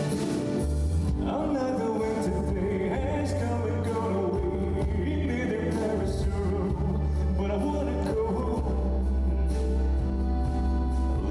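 A man singing a slow ballad live over sustained bass and instrumental accompaniment.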